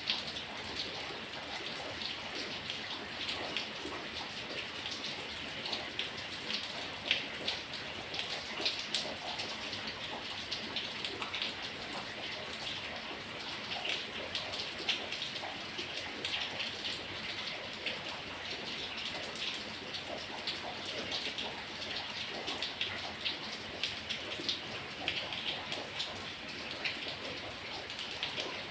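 Heavy tropical storm rain falling steadily, with many sharp individual drop impacts pattering through the steady rush.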